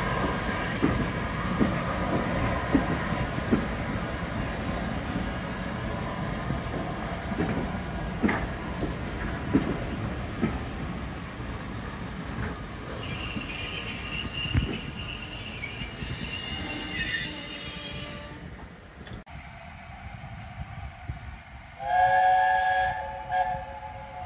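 Railway coaches rolling past on jointed track, the wheels clicking over the rail joints about once a second, with a high-pitched wheel squeal for several seconds past the middle. After a sudden cut, a steam locomotive's whistle sounds once near the end, several notes at once, for about a second and a half.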